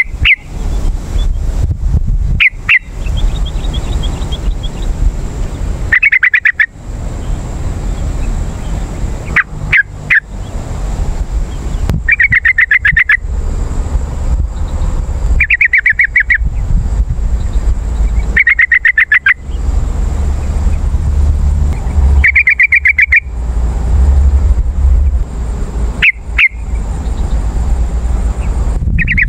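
Yellow-vented bulbul (trucukan) calling: about nine short, rapid bubbling phrases, spaced roughly three seconds apart. A constant low rumble and a faint steady high whine run underneath.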